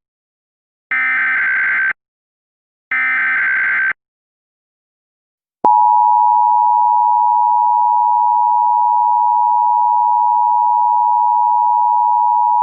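Emergency Alert System header and attention signal. Two bursts of SAME header data tones play, each about a second long and a second apart. After a short pause, the EAS two-tone attention signal starts about six seconds in: a loud, steady pair of close tones that runs on.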